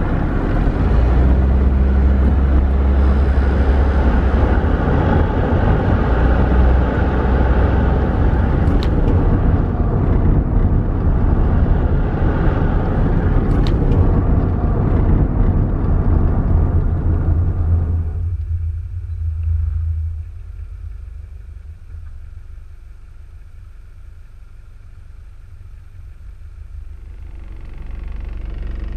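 Car driving on a road, with steady engine and road noise and a low rumble. About two-thirds of the way through the noise drops off sharply as the car slows, then builds again near the end.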